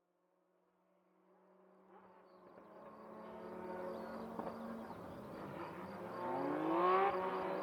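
Rally car engine buzzing in the distance and growing steadily louder as it approaches, with the revs rising in pitch near the end.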